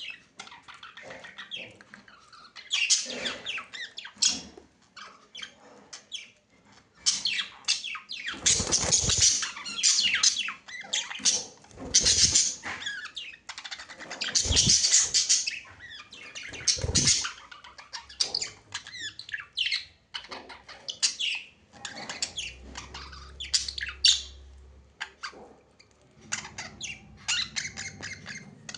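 Budgerigars chattering, with rapid, irregular chirps, warbles and squawks that come in louder spells, and a few short low thumps among them.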